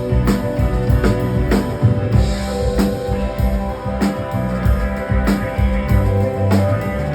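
Live rock band playing an instrumental passage: a drum kit keeping a steady beat under sustained guitar and bass.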